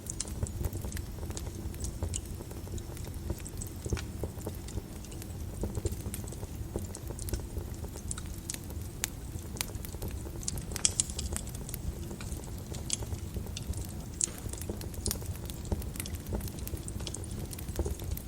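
Wood fire in a fireplace crackling: irregular sharp pops and snaps over a steady low rumble of the flames, with a quick cluster of pops about halfway through.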